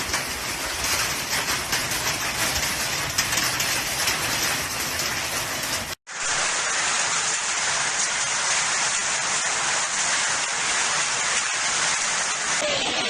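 Hailstorm with heavy rain pelting down: a dense, steady hiss of many small impacts. It cuts off abruptly about six seconds in and at once picks up again, as the same kind of downpour from a second recording.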